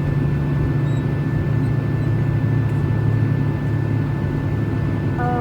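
Steady airliner cabin noise: a loud, even low hum from the engines and air system heard from inside the passenger cabin, with a faint steady high tone over it. A voice begins right at the end.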